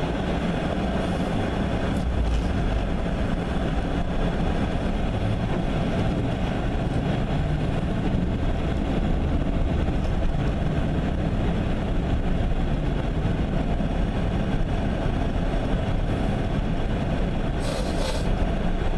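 Pickup truck driving, heard from inside the cab: a steady low rumble of engine and road noise. A brief hissing burst comes near the end.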